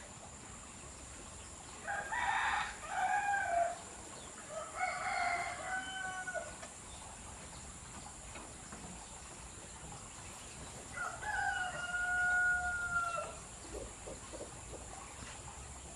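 A rooster crowing three times, each crow a few rising syllables ending in a long held note.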